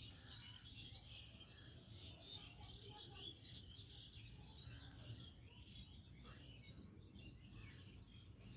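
Faint, continuous chirping of small birds: many short overlapping calls over low background noise.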